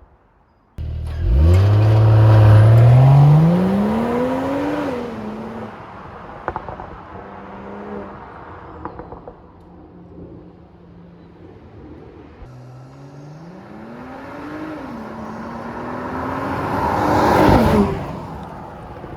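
Mercedes-AMG GLE 53's turbocharged 3.0-litre inline-six with Performance Exhaust accelerating hard, revs climbing steeply into an upshift about four seconds in, then settling. It pulls hard again from about twelve seconds in and ends in a loud burst of noise as the revs drop off.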